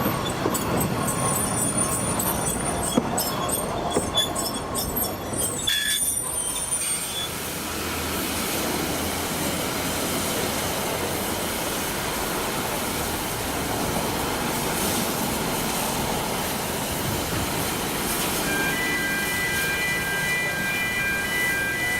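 Narrow-gauge train running past, its wheels clicking over the rails and its flanges squealing high for the first few seconds. After a sudden change it becomes a steady rushing noise, with a few high steady tones joining near the end.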